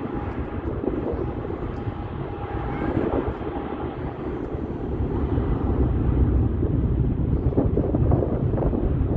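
Boeing 777-300ER airliner's GE90 jet engines rumbling, growing gradually louder, with a faint high whine, as it comes in to land.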